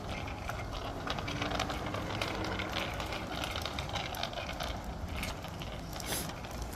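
Bicycle riding noise: quick irregular clicking like a coasting freewheel ratchet over a steady low rumble.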